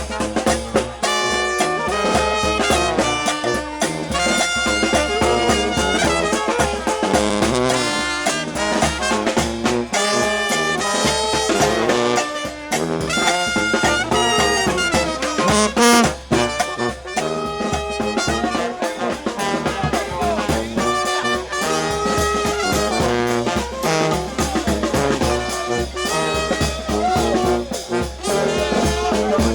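New Orleans brass band playing second-line music on the street: trumpets, trombones and saxophone over a steady bass drum and snare beat.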